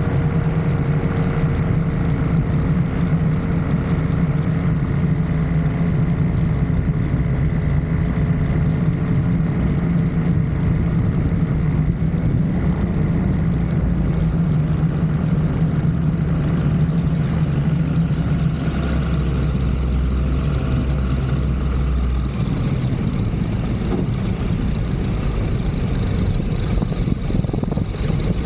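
Light aircraft's engine and propeller running steadily during the landing. The low engine sound shifts in the second half, and a high whine comes in about two-thirds of the way through and falls away near the end.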